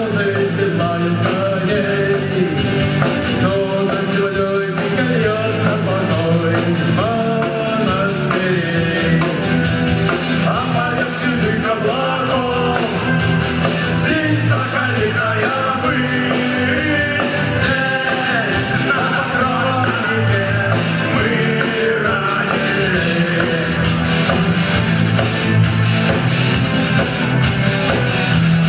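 Rock band playing live: electric guitar, bass and drum kit with a steady, fast beat.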